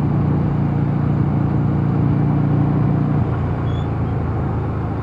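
Mondial Nevada 250 motorcycle engine running steadily under way, over a steady rushing noise. The engine note eases off about three seconds in.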